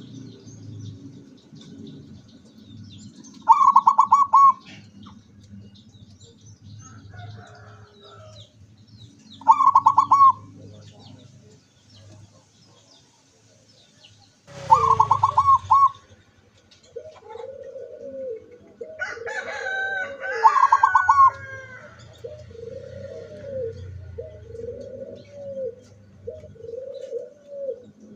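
Zebra doves (perkutut) cooing. Four loud, rapid stuttering coo phrases come a few seconds apart, and through the second half runs a series of softer, lower, evenly spaced coos.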